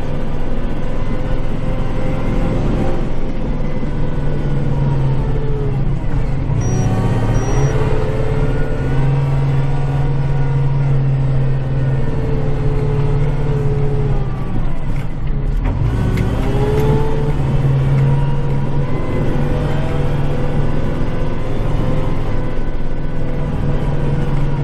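Kubota tractor's diesel engine running steadily, heard from inside the cab. Its speed sags and climbs back twice, about five and fifteen seconds in.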